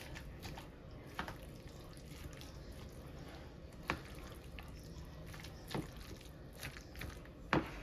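Faint wet squishing and a few light clicks from potato salad being mixed in a bowl.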